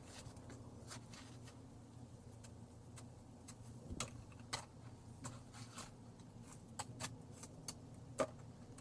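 Faint, irregular light clicks and ticks over a low, steady hum.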